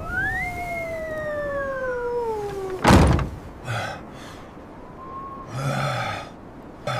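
A wolf howl: one long call that rises quickly, then slides slowly down in pitch for nearly three seconds. It is cut off by a loud thunk, followed by a few short, low animal calls.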